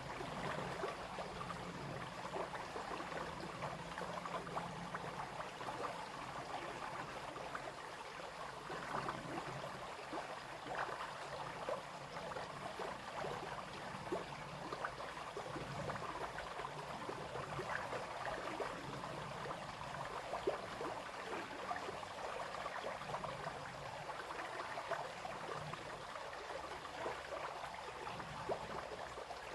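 A small brook running over stones, a steady babble and splash with many small gurgles.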